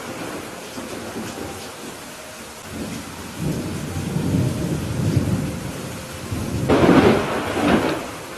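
Steady rainfall with thunder: a low rumble rolls in a few seconds in, then a loud thunderclap breaks near the end.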